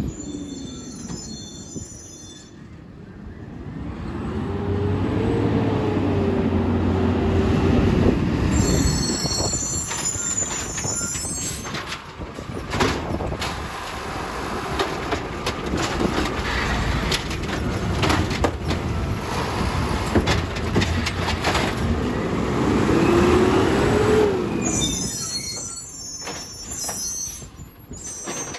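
Recycling garbage truck at work: its engine and hydraulics rise and fall in pitch twice, with high metallic squeals, and a run of clattering knocks in the middle as a bin is emptied into the hopper.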